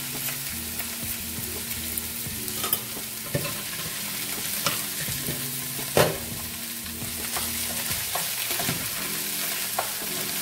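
Spinach, tomato and onion frying in oil and sizzling in a sauté pan while a spatula stirs them, with several sharp knocks against the pan, the loudest about six seconds in.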